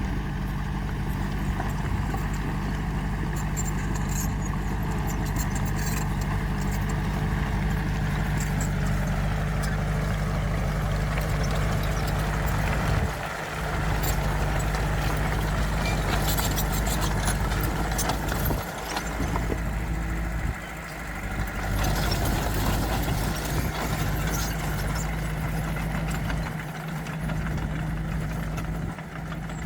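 Heavy diesel engine of earthmoving equipment running steadily, with a few brief drops in level and scattered faint rattles and clanks.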